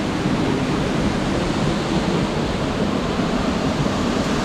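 Steady rushing roar of a high waterfall's falling water, an even hiss with no rhythm.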